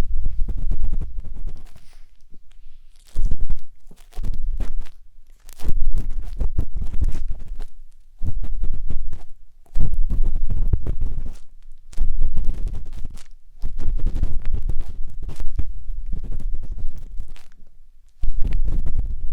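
A matchstick scraping and rubbing inside a 3Dio binaural microphone's silicone ear in ASMR ear cleaning. It comes as repeated strokes of a second or two, a deep rumble with fine scratchy crackle, separated by short pauses.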